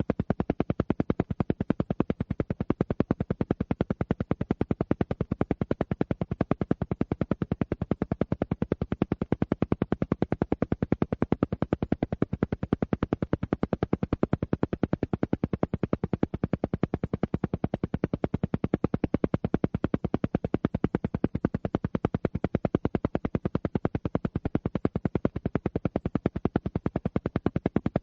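Alpha-wave pulsing sound: a rapid, perfectly even train of pulses, many per second, repeating without change. This is a brainwave-entrainment track pulsed at alpha rhythm.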